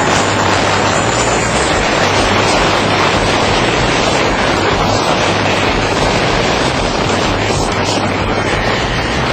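A vehicle driving at speed: a steady, loud rumble of engine with road and wind noise that does not rise or fall.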